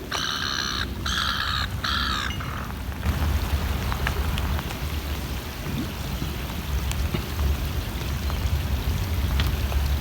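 Steady rain falling, with a low rumble underneath. In the first couple of seconds a bird gives three drawn-out calls.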